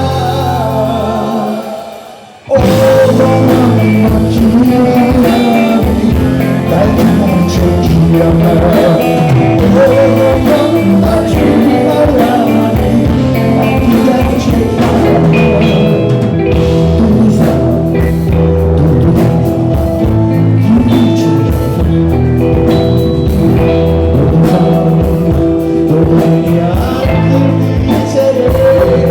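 Live rock band playing with guitar, drums and singing. The music fades and drops out briefly about two seconds in, then the full band comes back in abruptly.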